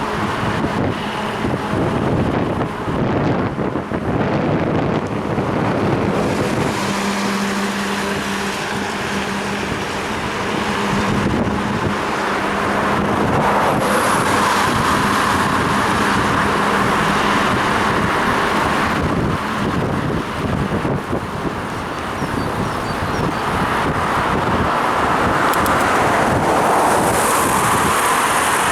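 Wind buffeting the microphone of a head-mounted action camera on a moving bicycle, over road traffic noise on a rain-wet street. A steady engine hum runs through the middle, and swells of hiss come about halfway through and near the end as vehicles pass.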